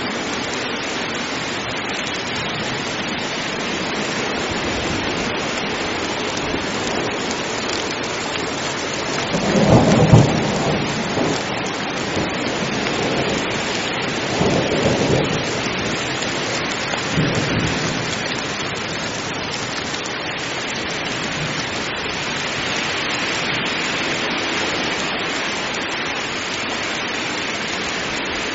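Heavy rain falling steadily in a thunderstorm, with a loud rumble of thunder about ten seconds in and two weaker rumbles over the next several seconds.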